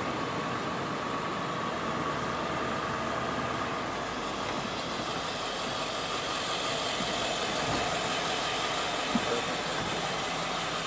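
Steady engine and road noise heard from inside a car, with a faint steady whine.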